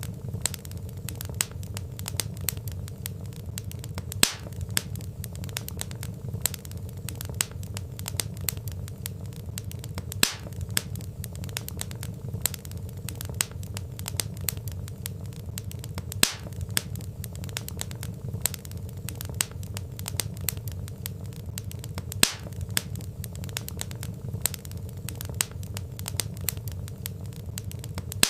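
Wood fire burning in a fireplace: dense crackling of the logs over a steady low rumble of flame, with a louder pop about every six seconds.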